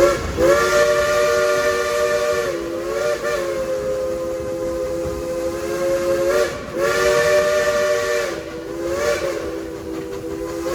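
Chime steam whistle of Baldwin steam locomotive No. 70, sounding a three-note chord in long drawn-out blasts with a steamy hiss. The pitch sags and swells briefly twice as the whistle valve is worked, and there is a short break about six and a half seconds in.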